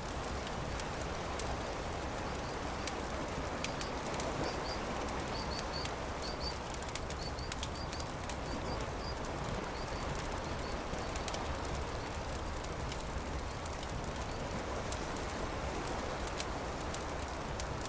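Campfire crackling, with frequent small sharp pops over a steady rushing background. In the first half, a bird calls a run of short, high chirps for several seconds.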